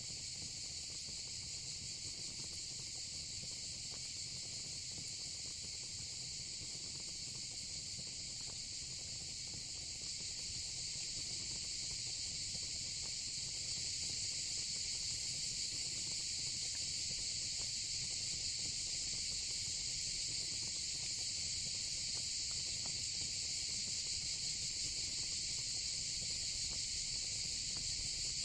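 Steady, high-pitched chorus of crickets over the faint crackle of a fire pit, growing a little louder around ten and fourteen seconds in.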